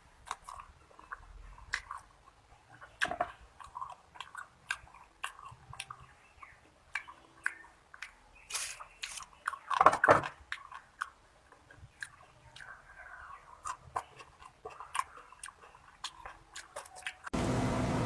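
Close-miked eating: mouth sounds of biting and chewing with small wet clicks and crunches, the loudest crunch about ten seconds in. Near the end the sound jumps abruptly to a louder, denser chewing noise.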